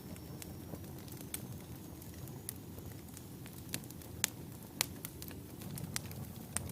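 Wood fire burning in a fireplace: a low steady rumble of flames with sharp crackles and pops at irregular intervals, the two loudest pops a little past the middle.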